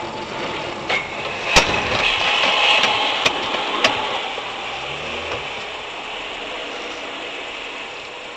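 Vehicle running with steady road and engine noise, heard from inside the vehicle. There are about five sharp clicks or knocks in the first four seconds.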